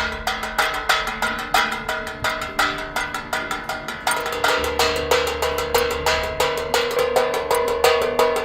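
Background music: a percussion-led track with a fast, steady beat of about four hits a second over short repeated pitched notes. A low bass line joins about halfway through.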